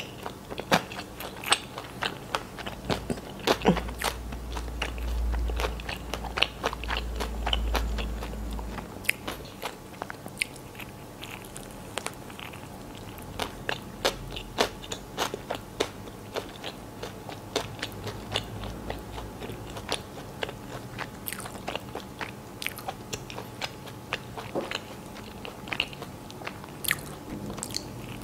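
Close-miked chewing of a chicken sandwich with lettuce: many small wet clicks and crunches, and another bite taken near the end.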